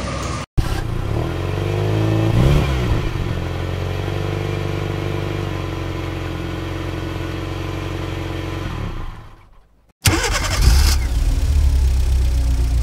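Hyundai Grand i10 hatchback's engine running: a brief rev about two seconds in, then a steady idle. After a short break near the end it runs again, louder, with a brief clatter as it starts.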